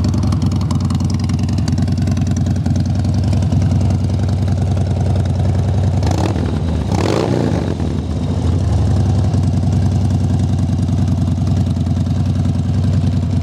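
Harley-Davidson Twin Cam 103 V-twin idling through a Vance & Hines 2-into-1 exhaust, with two quick throttle blips about halfway through before it settles back to idle.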